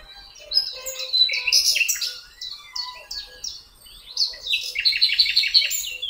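Songbirds chirping and singing, many short high chirps that sweep downward and overlap, with a fast run of repeated chirps over the last second or so.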